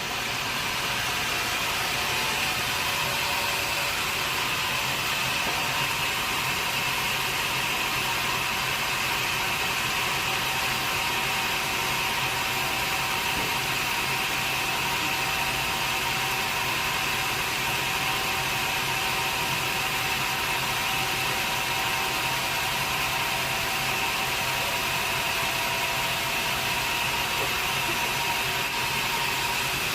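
Sawmill saw running steadily, a constant mechanical drone with a high whine.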